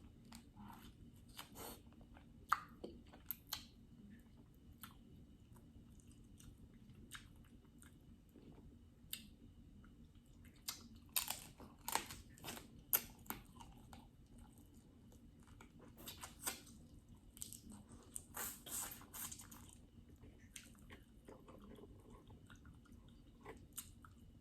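Close-miked eating of a seafood boil: quiet chewing and mouth sounds broken by sharp crunching clicks. The cracks come in clusters around the middle and again a few seconds later.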